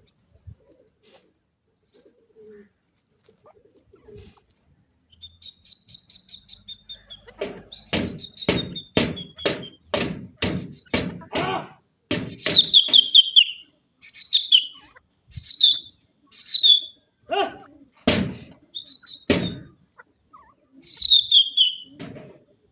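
Grey francolin (teetar) calling: after a quiet start, a run of short sharp notes about two a second builds up, then loud shrill calls, each falling in pitch, repeat in bursts.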